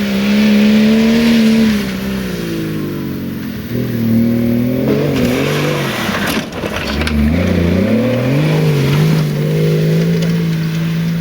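Off-road 4x4's engine working hard in rough terrain, revving up and down as the throttle is worked, dropping low about seven seconds in and then holding a steady pitch near the end.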